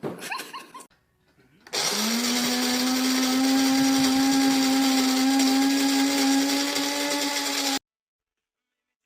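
A small electric motor, as in a kitchen appliance, spinning up with a brief rise in pitch and then running at high speed with a steady whirring hum for about six seconds before cutting off abruptly.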